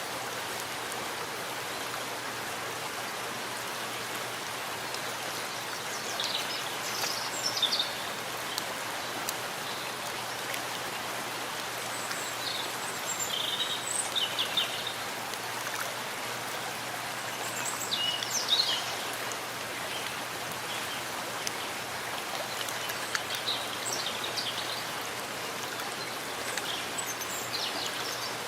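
Steady rain falling in a forest, an even hiss, with brief bursts of high bird chirps every few seconds.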